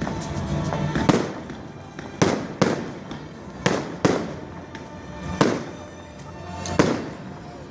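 Fireworks going off in a display finale: seven sharp bangs in about seven seconds, some in quick pairs, over continuous crackling.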